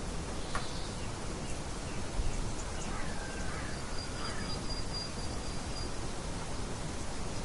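Nature ambience of birds chirping: a steady background hiss with a few short bird calls about three seconds in and a thin high trill held for about two seconds near the middle.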